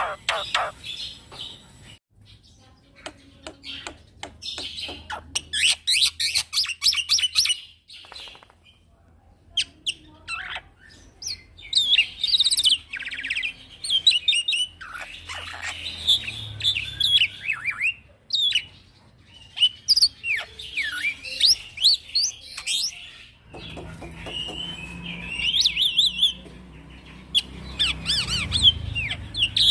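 Young male black-winged starling singing a long, varied song: rapid trains of clicks, chattering runs and sharp rising and falling whistles, broken by short pauses between phrases.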